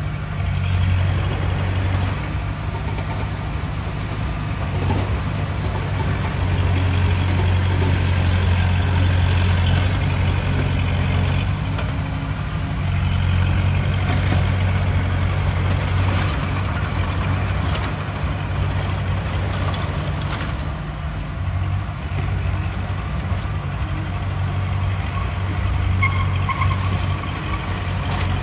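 Heavy diesel engine of earthmoving machinery running steadily under load, a deep continuous drone that swells and eases a few times.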